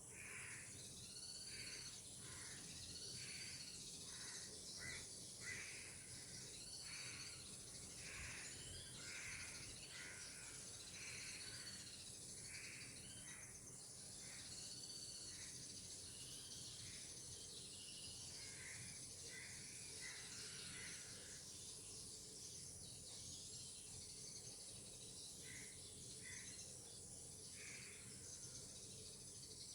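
Birds calling in a long series of short arched notes, thinning out about two-thirds of the way through with a few more calls near the end, over a steady high hiss.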